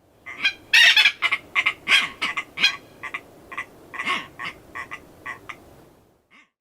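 Tropicbird calling: a quick run of short, croaking calls, loudest about a second in and trailing off shortly before the end.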